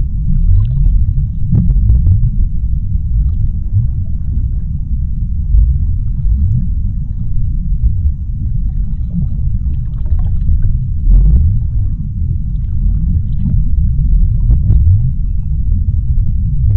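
Underwater ocean ambience: a steady deep rumble with faint scattered clicks and crackles.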